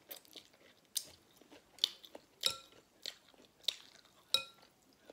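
Close-miked chewing of a chewy mouthful, with sharp wet mouth clicks about every two-thirds of a second.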